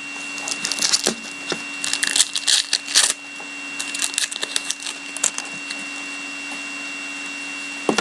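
Trading card packs and cards being handled: bursts of crinkling and rustling, likely a foil hockey card pack torn open and the cards slid out. The crinkling comes in two spells, the first longer and louder, then it goes still.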